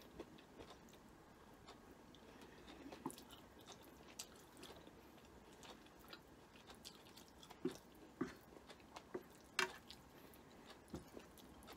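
Faint sounds of a person chewing a mouthful of stir-fried egg noodles, with scattered small mouth clicks and smacks. A few louder smacks come in the second half.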